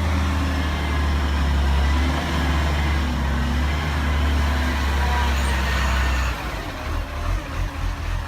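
Garbage truck engine running with a steady low drone; about six seconds in it drops in level and turns uneven.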